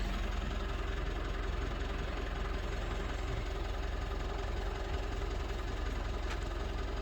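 Mitsubishi Shogun Sport engine idling steadily, with an even low hum.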